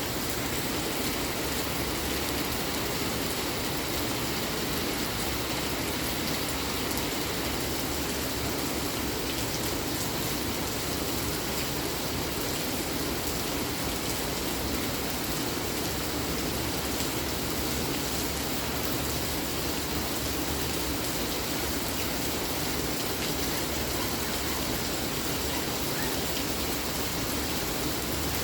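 Steady rain falling, an even hiss with many small drop ticks that neither builds nor eases.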